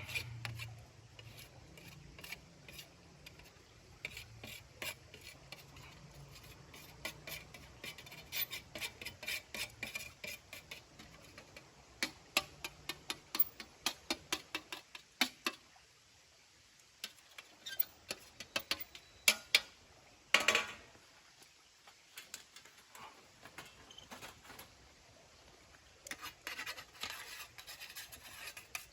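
Cold charcoal and ash being scraped and shifted together for cleanup, a long run of light clinks and scrapes with a louder, longer scrape about twenty seconds in.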